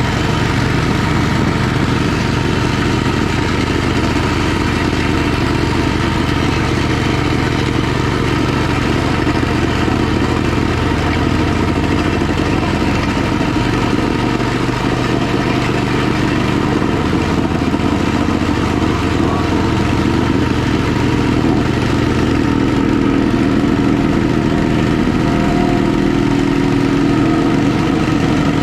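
Harbor Freight plate compactor's small engine running steadily while the vibrating plate tamps down loose slag.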